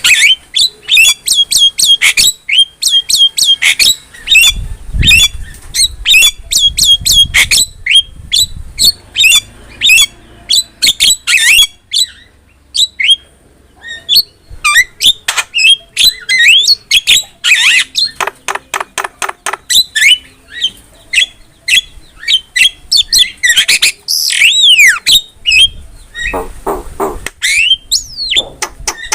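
Javan myna singing a fast, varied run of harsh squawks, clicks and squeaky whistled notes, with a grating buzzy passage midway and some rising and falling whistles near the end.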